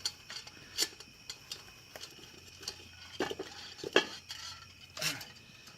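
Metal clinking and scraping: a metal tool knocking and dragging against metal in a series of sharp, unevenly spaced strikes, the loudest about four seconds in.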